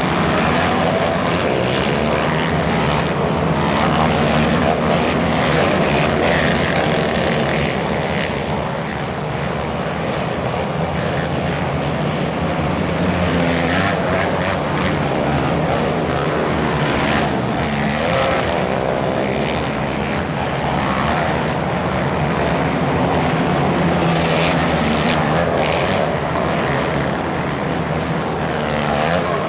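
Off-road race vehicles' engines running loud and continuously, the pitch rising and falling as they rev.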